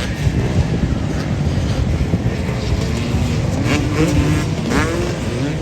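Motorcycle engines running in a dense mix, with revs rising and falling several times in the second half.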